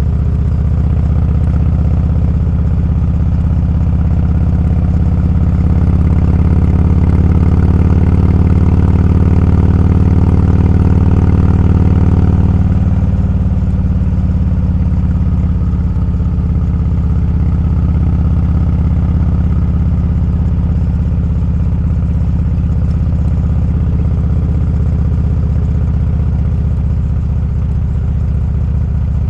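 Motorcycle engine running steadily under way, heard from the bike itself. It pulls a little harder from about six seconds in, then eases off around twelve seconds.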